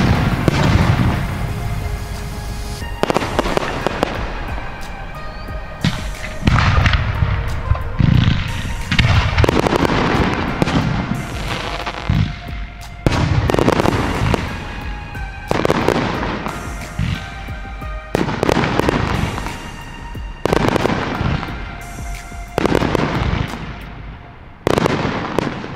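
Aerial fireworks bursting in quick succession, a bang about every one to two seconds, each followed by a crackling, fading tail. Music plays underneath.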